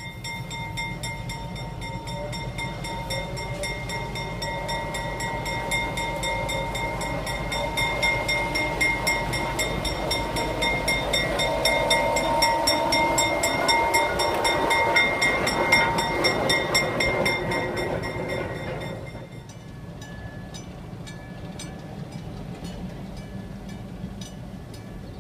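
Diesel locomotive running by on the rails, a steady mechanical drone with a fast even clatter and a high steady whine, growing louder and then falling away sharply about three-quarters of the way through.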